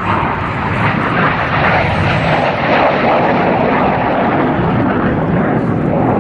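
Loud jet noise from Red Arrows BAE Hawk T1 jets flying past in formation. It comes in suddenly at the start and stays steady.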